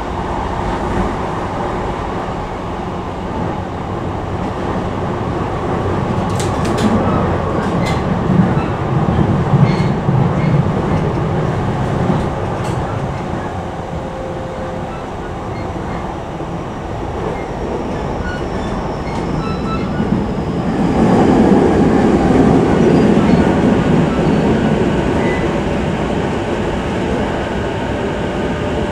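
E233-5000 series electric train running, heard from inside a passenger car: a steady rumble of wheels on rail with a few sharp clicks. The rumble grows louder about two-thirds of the way in as the train enters a tunnel.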